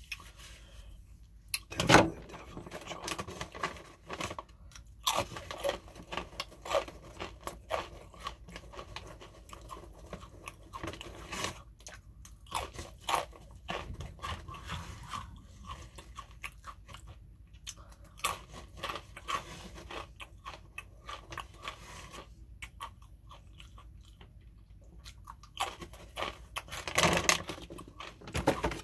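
A person biting and chewing crunchy food close to the microphone: a run of crisp, irregular crunches and mouth sounds, loudest about two seconds in and again near the end.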